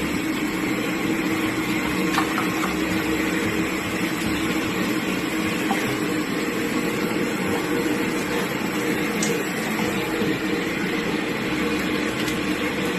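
Electric blender motor running steadily, blending watermelon for juice.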